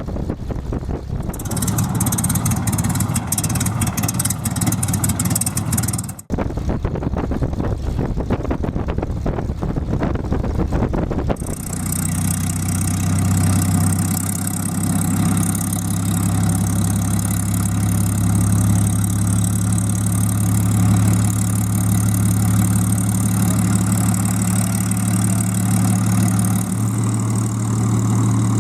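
Hawker Hurricane's Rolls-Royce Merlin V12 engine running on the ground after start-up. It sounds rough and ragged at first, then partway through settles into a steady low drone.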